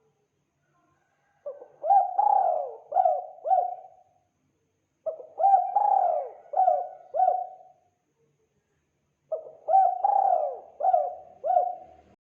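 Spotted dove cooing: three phrases a few seconds apart, each a run of four or five coos.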